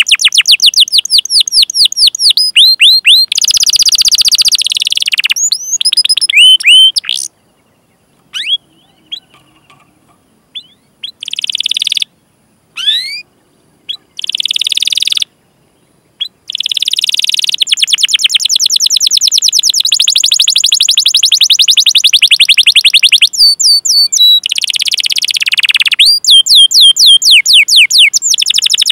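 Domestic canary singing: rapid series of sharp, falling 'cuit cuit' chirps and long rolled trills. A pause of a few seconds, broken by single chirps, comes about a quarter of the way in, and a long unbroken roll comes past the middle.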